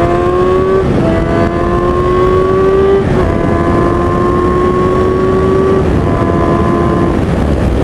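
Kawasaki ZX-6R 636 inline-four sport bike engine accelerating hard through the gears: the pitch climbs steadily, then drops at each upshift, four times.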